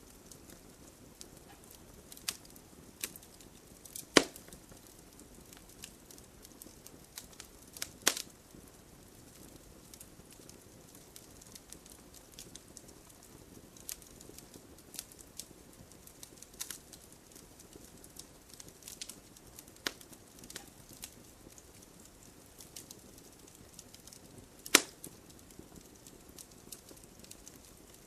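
Wood fire crackling steadily, with scattered sharp pops, the loudest about four seconds in, eight seconds in and near the end.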